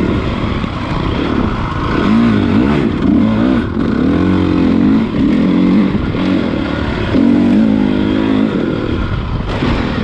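Honda CRF450 motocross bike's single-cylinder four-stroke engine under riding, its revs rising and falling repeatedly as the throttle is opened and shut, with a couple of longer pulls in the middle and near the end.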